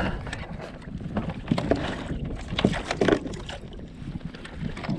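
Sounds from a kayak on the water: wind on the microphone over a low rumble, with irregular knocks and splashes against the hull.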